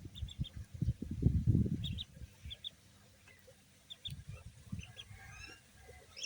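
Ducklings peeping in short, high calls, often in quick pairs, with a run of rising chirps about five seconds in. Irregular low thuds sound underneath, heaviest in the first two seconds.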